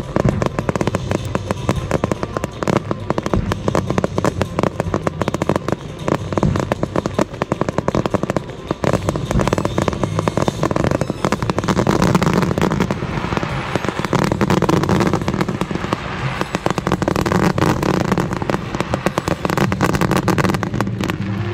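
Fireworks going off in quick succession: a dense, unbroken run of bangs and crackling from aerial shells and low-level mines.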